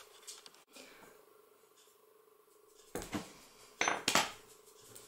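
A few short clinks and knocks of hard objects being handled on a tabletop, bunched together about three to four seconds in.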